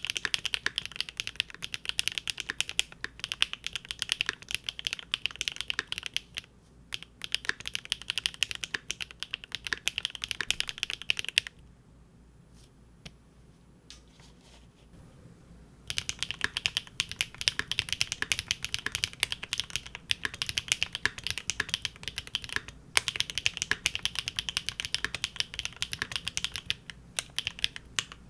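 Fast, continuous typing on a Linworks Big Whale custom mechanical keyboard with GEON Raw Zero switches on a polycarbonate plate. The typing stops for about four seconds partway through, leaving only a few single key presses, then carries on, with brief breaks near the end.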